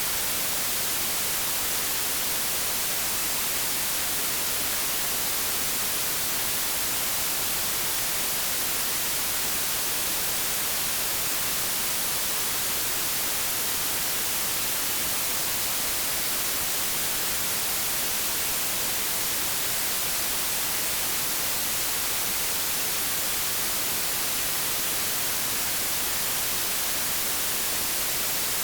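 Steady white-noise static, an even hiss with no change, heaviest in the high end like TV or radio static.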